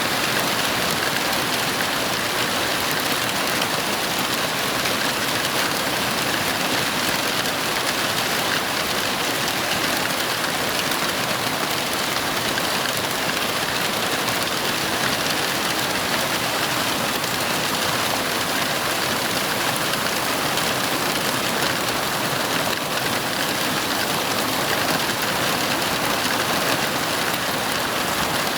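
Heavy rain falling steadily, an even hiss with no thunder heard.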